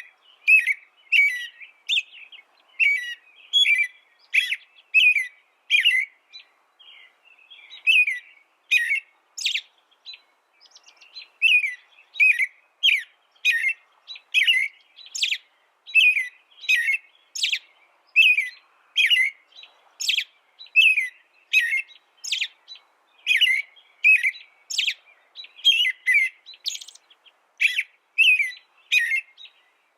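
A small songbird chirping: a steady series of short, sharp, high notes, about two a second, with a brief pause about ten seconds in.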